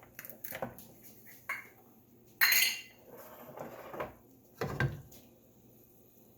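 Kitchen utensils and cookware being handled: scattered light clinks and knocks, a short loud rasping burst about two and a half seconds in, and a dull knock near five seconds.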